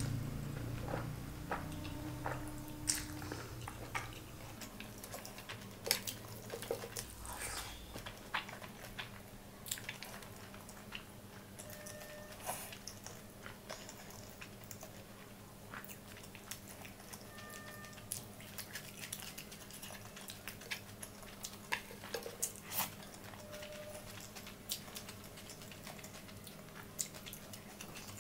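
Close-miked chewing of a mouthful of fried rice eaten by hand, with many small wet clicks and smacks of the mouth scattered throughout.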